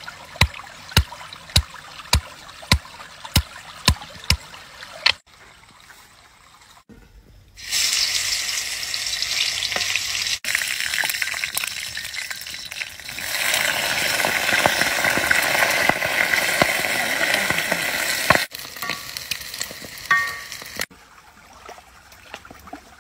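Food sizzling in hot oil in a wok, growing louder about halfway through as intestines go into the pan, then cutting off suddenly. Before it, about nine sharp knocks, a little over half a second apart.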